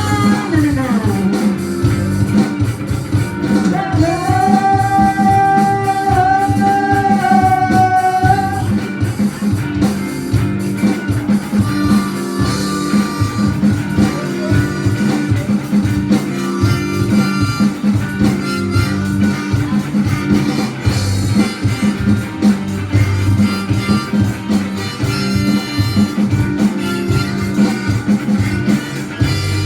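A band playing an instrumental passage with a steady beat. A lead instrument holds one long note from about four to eight seconds in.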